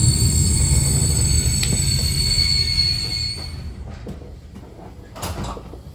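Passenger train running on the rails: a heavy low rumble with a steady high whine. About four seconds in the whine stops and the rumble dies down, and a brief rustle follows near the end.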